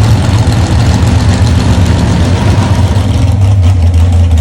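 Big truck engine running with a loud, deep, steady drone that evens out about three seconds in.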